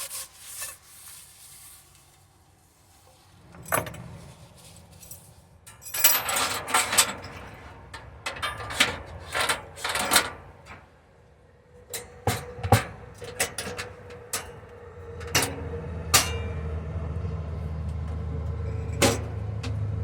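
Handling noises: scattered knocks, clicks and rubbing. A steady low hum comes in about three-quarters of the way through.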